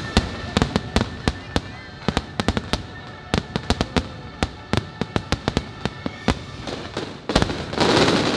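Aerial fireworks shells bursting in quick succession, several sharp bangs a second, over the show's music playing from loudspeakers. Near the end there is a louder rush of noise lasting about a second.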